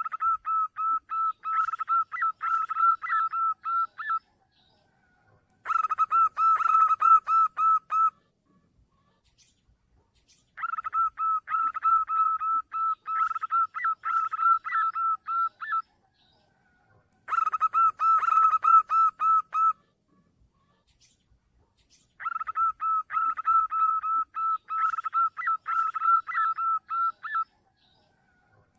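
Zebra dove (perkutut) calling: five bouts of quick staccato notes at one steady pitch, each a few seconds long and separated by short pauses, played as a lure call.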